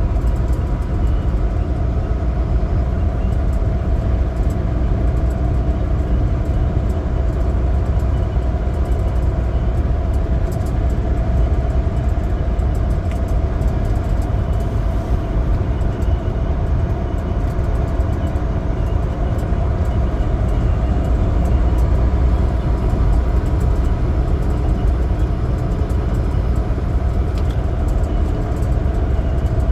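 Semi truck's diesel engine running steadily with road noise, a constant low drone with a few held tones and no change in pace.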